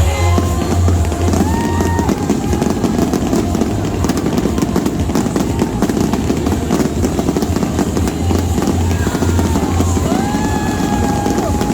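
Fireworks crackling in a dense run of pops, over music with a throbbing bass.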